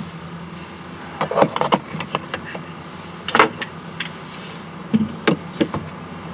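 Irregular knocks and short scrapes of a whetstone shifting on its sink bridge as the sharpening setup is tested, in three clusters, over a steady low hum.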